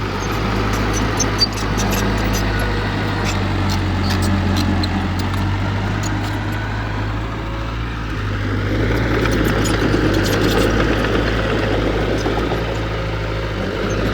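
Heavy earthmoving machine's diesel engine running steadily, getting somewhat louder after about eight seconds, with scattered sharp clicks and clanks over it.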